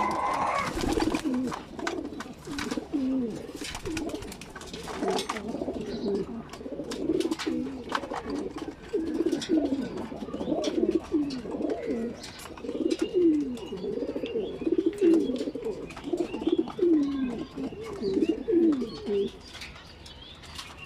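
Racing pigeons cooing over and over, one low rolling coo after another from several birds, stopping about two seconds before the end. Scattered sharp clicks and taps come through in the first few seconds.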